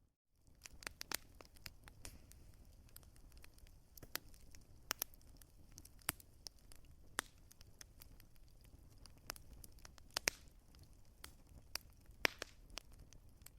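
Wood fire crackling: irregular sharp pops and snaps over a faint low rumble, with a brief dropout to silence right at the start.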